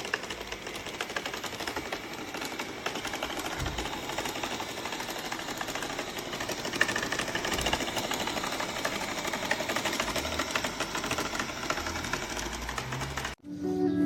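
Cecotec Conga 7490 robot vacuum running, with a fast, even mechanical rattle that cuts off suddenly just before the end.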